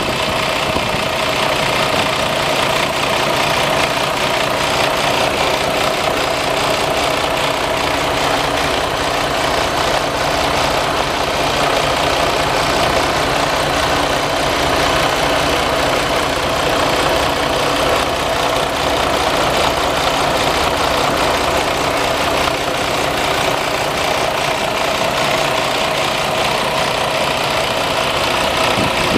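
Detroit DD15 diesel engine of a Freightliner Cascadia idling steadily.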